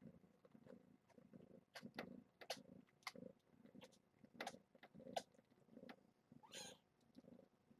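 Faint purring of a mother cat as she is scratched: a low rumble that pulses steadily, with soft clicks scattered through it and one brief rising squeak about six and a half seconds in.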